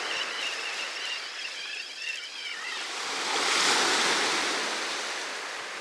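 Sea surf washing on the beach, a wave swelling and breaking about three and a half seconds in.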